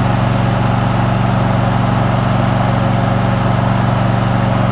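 Riding lawn mower engine running steadily at a constant speed, recorded from the seat.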